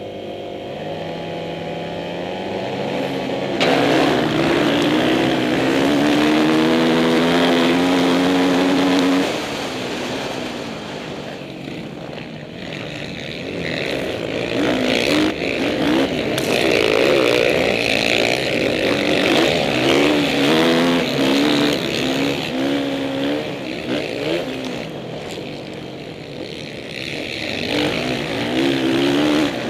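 Motocross dirt bike engines revving hard on a race track, their note rising and falling as the riders accelerate and shift. The loudest stretch is a bike close by from about 4 to 9 seconds in, its engine note climbing steadily.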